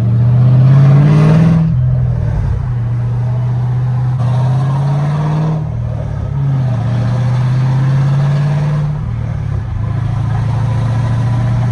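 Straight-piped 2011 Camaro SS 6.2-litre V8, with cats deleted, an H-pipe and Borla ATAK mufflers, accelerating loudly. The exhaust note climbs and drops back three times and holds a steady drone in between.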